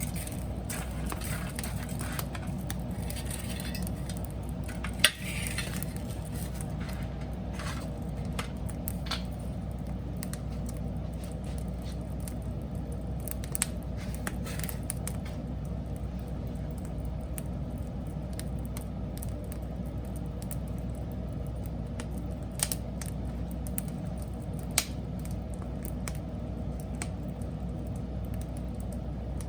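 Wood fire burning with a steady low rumble and a few sharp pops of crackling wood, the loudest about five seconds in.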